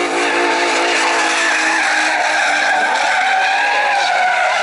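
Drift car tires screeching in one long, continuous slide, with the car's engine running beneath.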